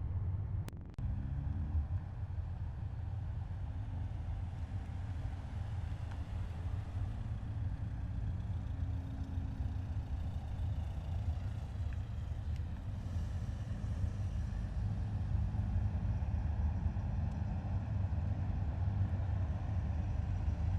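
Heavy military vehicles driving past in a column: a steady, deep engine rumble, with the sound briefly dropping away and returning about a second in.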